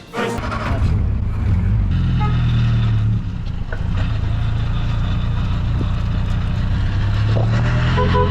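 Car driving along at a steady speed: a low, even engine drone with road noise, dipping slightly about three seconds in.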